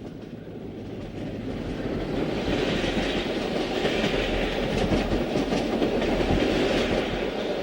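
Passenger train rolling past at speed, its wheels rushing and clicking over the rail joints, the noise building over the first couple of seconds and staying loud.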